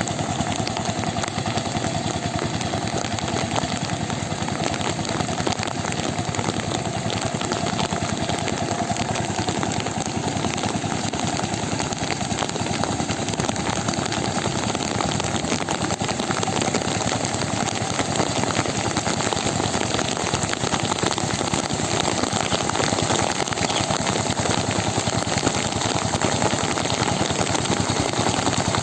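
An engine running steadily at a fast, even beat.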